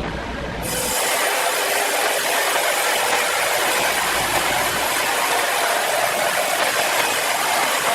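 A sawmill saw cutting through timber: a loud, steady hiss. A lower rumble gives way to it about a second in.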